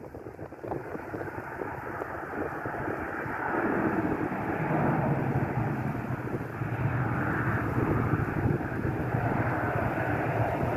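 Airplane's jet engines roaring as it passes, growing louder about three and a half seconds in and then holding steady.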